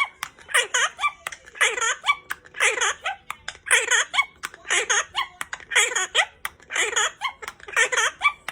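Parrot mimicking human speech: a rapid run of short, speech-like phrases, one or two a second, too garbled for the recogniser to write down.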